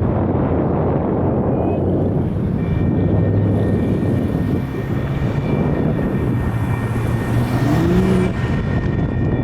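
Road traffic passing at a busy grade crossing: a steady low drone of engines and tyre noise. A steady high-pitched tone joins about two and a half seconds in, and a brief rising whine near the end.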